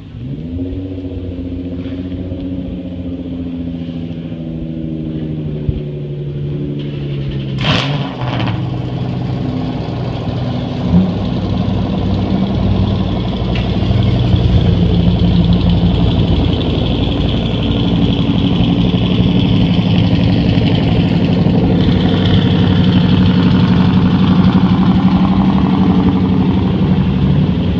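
Several V8 muscle-car engines idling at once, a steady low rumble that grows louder about halfway through, with a brief sharper burst about eight seconds in.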